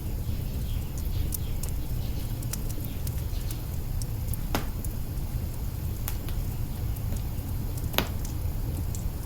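Wood fire in an open hearth crackling, with scattered sharp pops over a steady low rumble; two louder pops come about halfway through and near the end.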